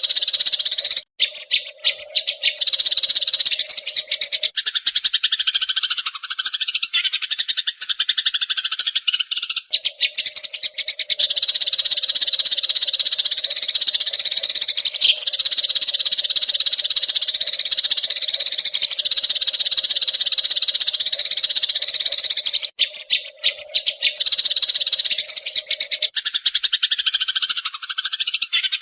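Eurasian tree sparrows chattering in a dense, continuous stream of rapid high chirps. A low steady hum runs underneath, drops out about four seconds in, returns, and stops again near the end.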